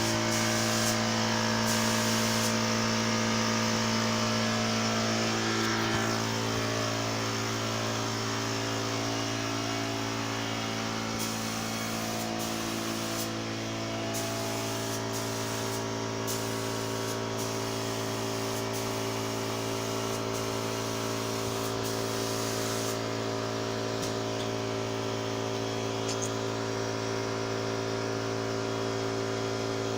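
A 24-litre air compressor's motor runs with a steady hum, while a spray gun hisses on and off in bursts as it sprays varnish.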